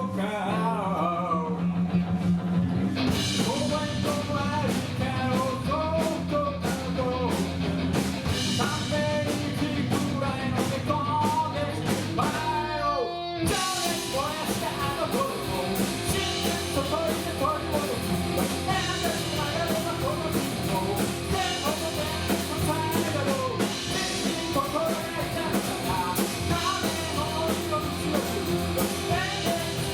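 Rock music with singing over guitar and drums. About halfway through, the music falls away in a short downward pitch sweep, then comes back in fuller.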